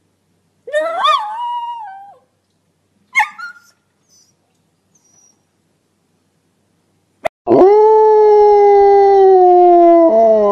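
A dog whines once with a wavering pitch and gives a short yip about three seconds in. After a silent gap, a long, loud dog howl starts about seven and a half seconds in and slowly falls in pitch.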